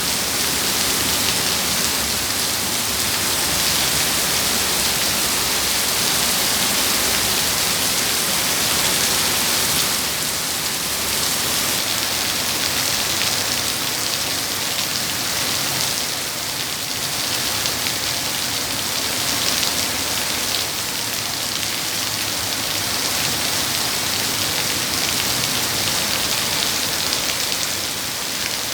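Heavy rain pouring down, a dense, even hiss of drops that holds steady throughout.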